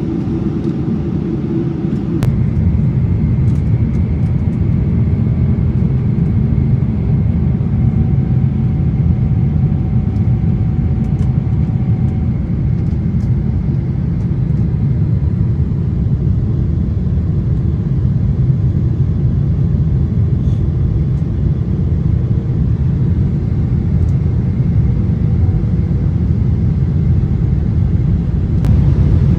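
Steady low rumble of a Boeing 777-300 airliner's engines and airflow heard inside the passenger cabin, growing a little louder about two seconds in.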